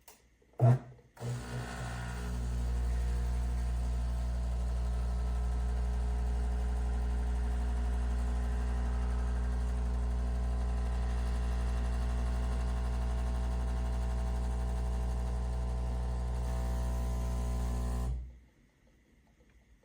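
A bean-to-cup espresso machine running: a click, then a steady motor hum for about seventeen seconds that cuts off suddenly.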